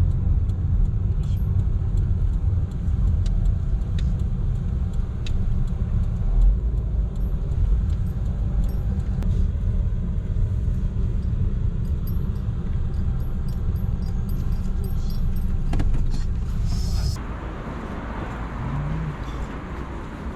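Low road rumble of a car in motion, heard from inside, with small clicks and rattles. About seventeen seconds in the rumble drops away and a softer hiss takes over.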